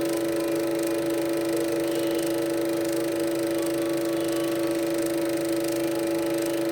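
Steady electronic drone of several held tones, unchanging in pitch, from a Super 8 film soundtrack played through the projector.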